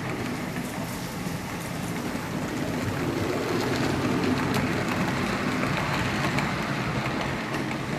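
HO-scale model train running along the layout track, its motor humming and wheels rattling over the rails with faint clicks; it grows louder about three seconds in and eases off near the end as it passes.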